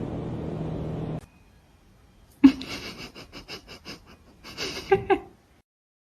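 Quick run of wheezy, gasping breaths, about six a second, opening with a sharp loud one, then a second short burst after a brief pause. A steady noisy background cuts off about a second in, before the breaths.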